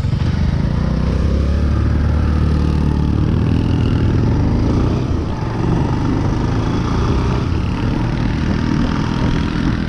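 Motorcycle engine running steadily under way, with the low engine note strongest and road and wind noise over it.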